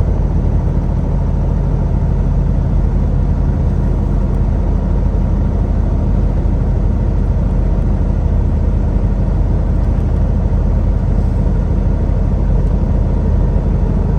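Semi truck's diesel engine and road noise, a steady drone heard from inside the cab while cruising.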